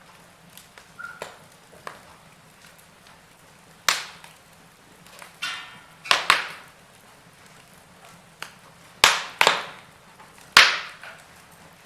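Wood fire burning in a fireplace, crackling with scattered sharp pops; about six loud snaps come in pairs and singles from a third of the way in to near the end, over a quiet steady hiss.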